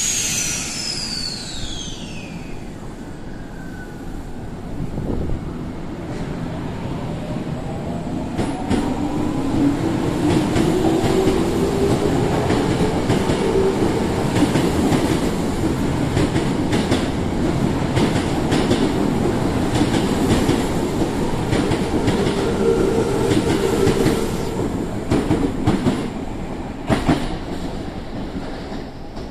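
A Tokyo Metro 05 series electric train pulling out of a station. A high tone falls in pitch over the first few seconds, then the traction motors whine, rising in pitch as the train picks up speed. The rhythmic clickety-clack of wheels over rail joints runs under the whine and fades near the end as the last cars pass.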